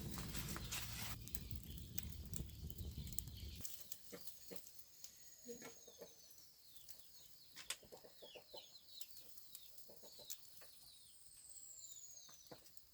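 Chickens clucking, with many short falling high chirps around the middle and scattered clicks. A low rumbling noise fills the first few seconds and then stops.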